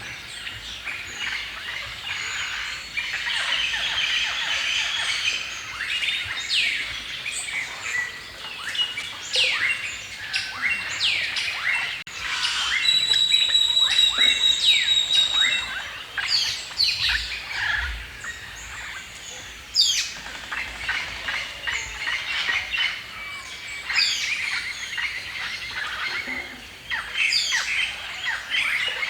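Chorus of several songbirds chirping and singing in a forest, with many quick descending chirps overlapping. A thin, steady high whistle holds for about three seconds near the middle.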